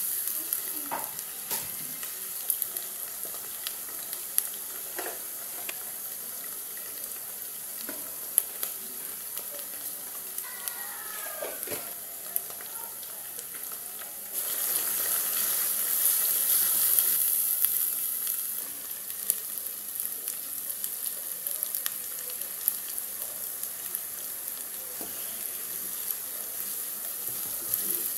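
Chopped onions sizzling as they fry in hot oil in a pot, with scattered scrapes and taps of a spatula stirring them. The sizzling turns louder for about four seconds near the middle.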